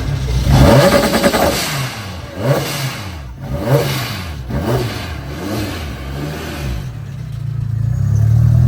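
A car engine revving up and down in a series of quick blips, loudest about a second in, then a steadier engine sound growing louder near the end.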